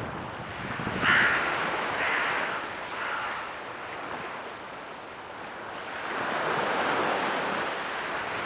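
Sea waves washing in, with wind on the microphone. About a second in, a bird calls three times, about a second apart.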